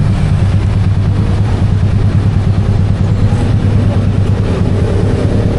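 Motorcycle engine running at a steady low pitch, without revving.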